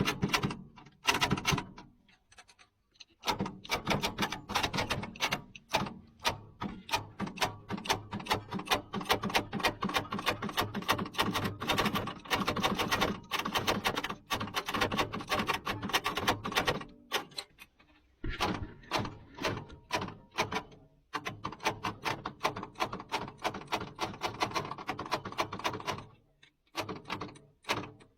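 Rapid, irregular clicking and clattering, several sharp taps a second, in long runs with brief pauses about two seconds in, about eighteen seconds in and near the end.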